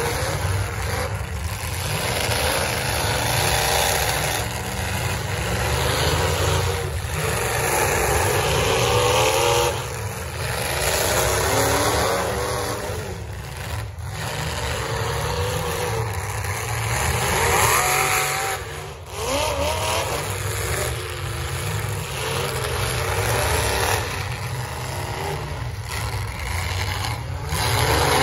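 Demolition derby cars' engines revving hard over a steady low rumble, their pitch rising and falling again and again as the cars spin and shove in the dirt.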